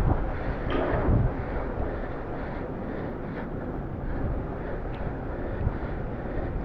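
Wind rushing over the microphone during a bicycle ride, a steady noisy rumble mixed with road noise, heaviest in the first second or so.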